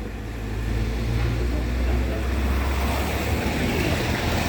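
Car engine and road noise heard from inside a moving car: a steady low rumble with a haze of tyre noise.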